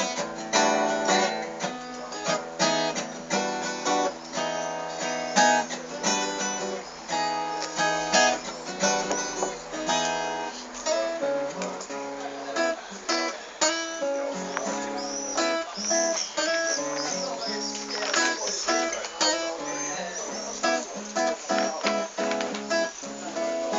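Acoustic guitar played solo, strummed chords and picked notes in an instrumental passage of a song.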